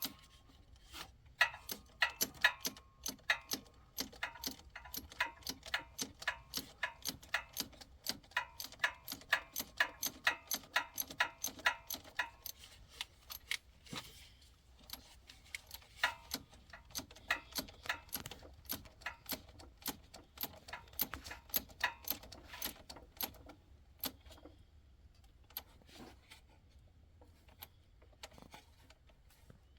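Ratchet wrench clicking rapidly in a steady rhythm as a 12 mm nut is run down, the clicking thinning to a few scattered clicks about 24 seconds in.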